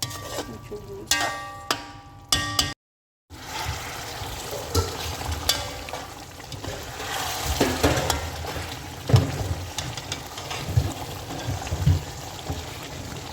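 Chicken stew cooking in a pot: a sizzling haze with a spoon knocking and scraping against the pot as it is stirred. The sound drops out completely for about half a second around three seconds in.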